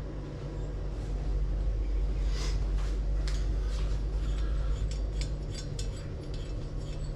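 Light metal clicks and clinks from about two seconds in, as a threaded aluminium insert is handled and screwed into an aluminium cylinder head, over a steady low hum.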